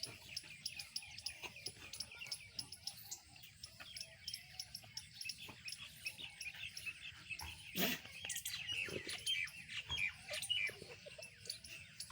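Animal calls: a dense run of short, high-pitched chirps and squeaks, overlapping throughout, with one sharp knock about eight seconds in.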